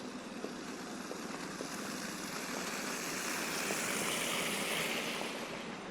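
A car passing on a snow-covered street: a tyre hiss swells to a peak about four to five seconds in, then fades.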